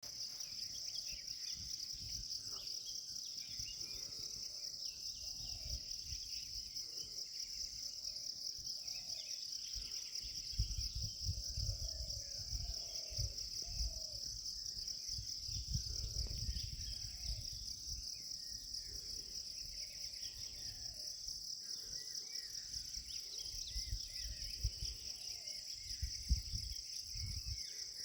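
Insect chorus: a steady, high, finely pulsing trill that runs without a break. Low rumbling bumps come and go beneath it, heaviest in the middle and again near the end.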